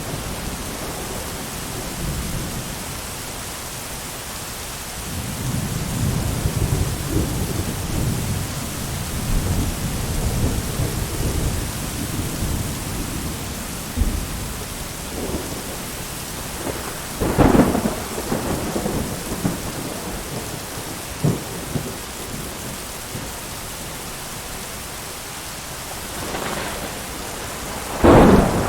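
Steady rain with thunder: a long low rumble rolls for several seconds, then a sharp crack of thunder comes about 17 seconds in and a louder one near the end.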